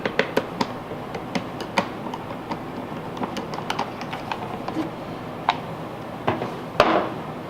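Light plastic clicks and taps as the side panel of a Honda EU2000 generator is worked loose and pulled off, with a louder scraping rattle near the end.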